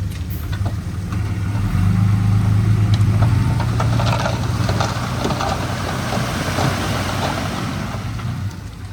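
Heavy diesel engine of earthmoving equipment running, rising under load about two seconds in and easing off near the end, with clattering and grinding through the middle.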